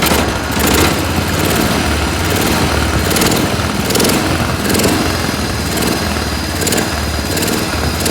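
Cub Cadet 1200 garden tractor's single-cylinder engine running at raised throttle, loud and a little uneven, its note swelling and fading about once a second.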